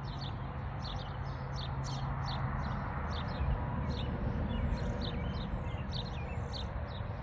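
Small birds chirping, a busy stream of short, high chirps several times a second, over a steady low rumble.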